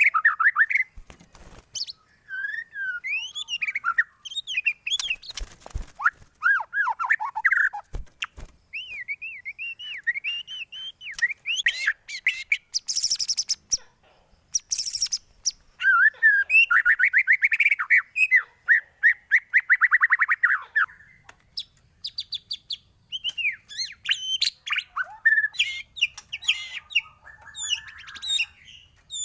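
White-rumped shama (murai batu) singing a long, varied song of quick whistled phrases and chirps, with a fast trill near the middle and a couple of harsh, scratchy notes. It is the kind of lure song used to prompt a caged shama to answer.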